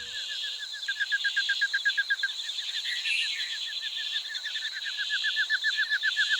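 A bird calling in a fast, even series of short falling chirps, about ten a second, over a steady high buzz.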